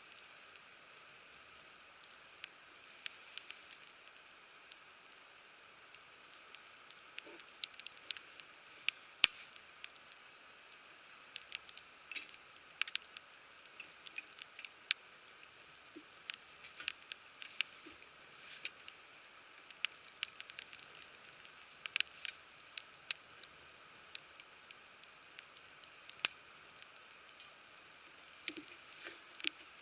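Wood fire crackling: irregular sharp pops and snaps, several a second at times, over a steady soft hiss.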